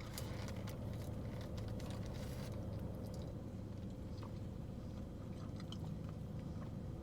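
A person chewing a mouthful of pulled pork sandwich with crunchy bits in it, giving small wet clicks and squishes that are busiest in the first couple of seconds and then sparser. A steady low hum runs underneath.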